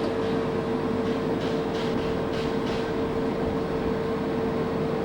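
Electric train on the Sentosa line running, a steady hum over rolling noise.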